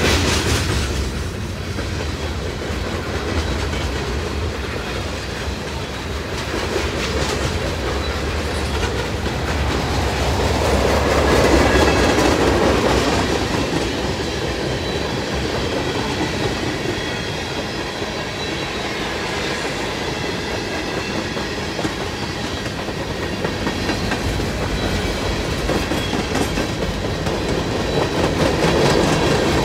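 Freight cars of a CSX manifest train rolling past: a continuous rumble of steel wheels on rail with clickety-clack over the rail joints, swelling louder about twelve seconds in and again near the end.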